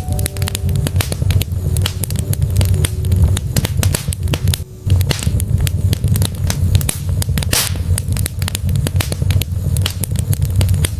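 Wood logs burning in a fireplace, crackling with many sharp snaps and pops over a steady low rumble, with one louder pop about two-thirds of the way in.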